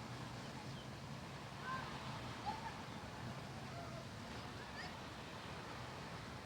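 Birds give a few short, scattered chirps over a steady background of low hum and noise.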